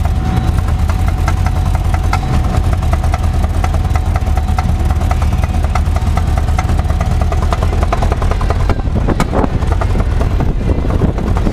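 1976 Land Rover Series III Lightweight's four-cylinder engine running under way with a dense, rapid knocking clatter over a low rumble. The owners traced the noise to worn, octagonal cam follower rollers and a broken lifter on the number one exhaust valve.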